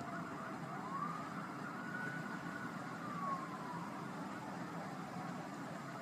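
Emergency vehicle siren wailing, one tone slowly rising, holding and falling, then starting to rise again, over a steady low background rumble.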